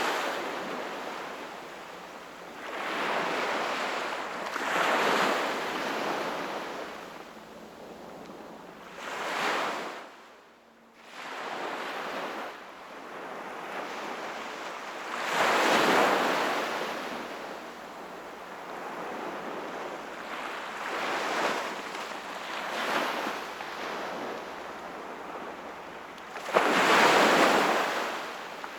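Sea waves breaking and washing ashore, each surge swelling and fading every few seconds, with a brief lull about ten seconds in and the loudest wave near the end.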